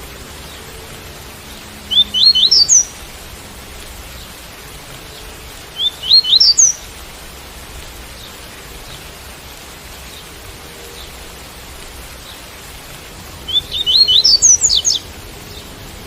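Double-collared seedeater (coleiro) singing its tui-tui song: three short phrases of quick rising whistled notes, the last the longest, over a steady hiss of rain.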